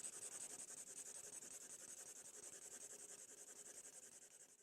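Drawing tool scratching on paper in rapid, even back-and-forth strokes, several a second, as when colouring in an area.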